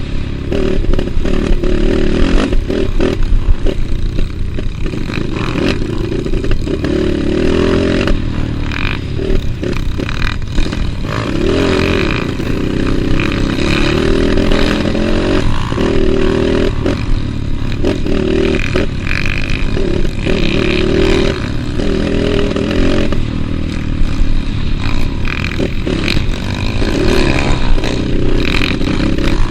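Trail motorcycle engine running under changing throttle, swelling and easing every second or two, with frequent knocks and rattles.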